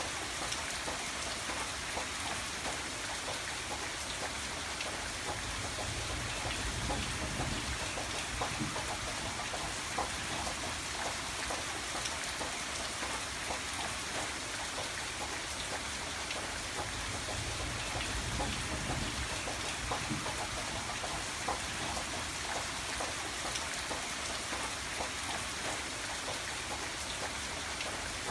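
Steady rain falling, a dense spread of small drop ticks over an even hiss, with a low rumble that swells and fades every few seconds.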